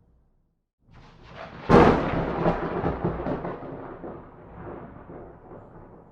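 Thunder: after a brief silence a rumble builds about a second in, breaks into a loud sharp crack just under two seconds in, then rolls on with smaller crackles and slowly fades.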